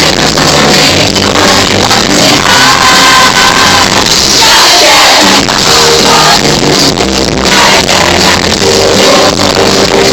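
Live band music with singing, loud and distorted, as captured by a phone's microphone at a concert.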